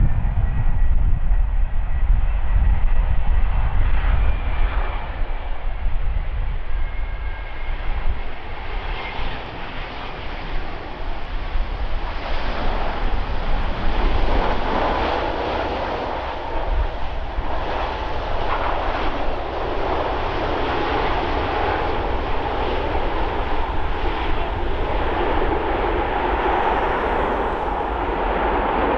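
Airbus A350-900's Rolls-Royce Trent XWB turbofan engines running, loud. A deep rumble eases over the first seconds, then a steady jet roar with a strong mid-pitched hum builds from about halfway through.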